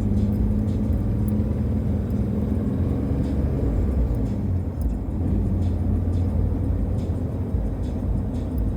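Car road and engine noise heard from inside the cabin while driving: a steady low rumble.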